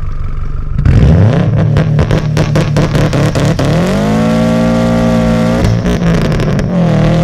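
Turbocharged 2.5-litre flat-four of a 2007 Subaru WRX STI with a catless downpipe and titanium catback exhaust, heard from inside the cabin. About a second in, it is floored with the clutch held in for a launch, the revs stuttering and crackling at the limiter. The revs then climb and hold high, drop sharply, and start rising again near the end.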